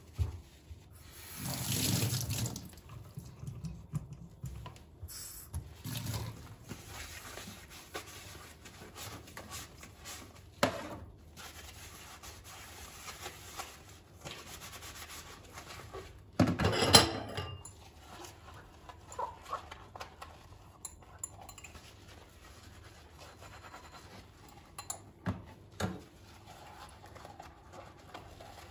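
Kitchen tap running into a sink as items are washed under it, with a couple of louder clatters as things are handled.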